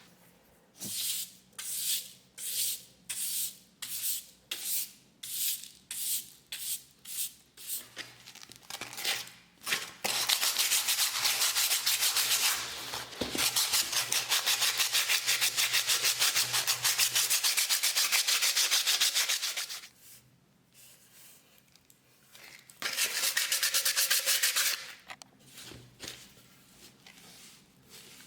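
Abrasive rubbing on the metal of a shell-casing cup during rust removal. It starts as separate back-and-forth strokes, a little under two a second, then turns into fast, continuous scrubbing in long stretches with brief pauses.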